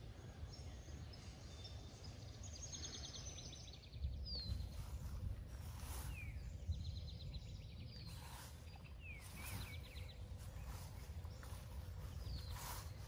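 Small birds calling: several short falling whistles a couple of seconds apart and a few quick rattling trills, over a steady low rumble.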